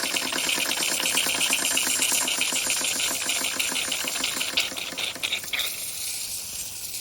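Mamod SE1 toy steam engine's single oscillating cylinder running with a rapid, even chuffing beat, then stopping about five and a half seconds in, leaving a faint hiss of steam. It stalls for lack of steam pressure, with steam leaking from the top pipe; the owner later suspects the boiler has run out of water.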